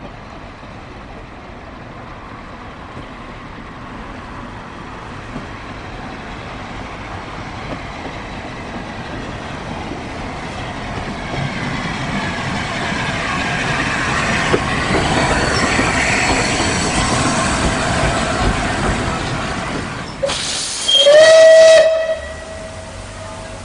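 A train approaching and passing, its rumble building to a peak and easing off. Near the end a steam locomotive's whistle sounds loudly for about a second and a half: a hissing blast with a steady tone, which lingers briefly as it dies away.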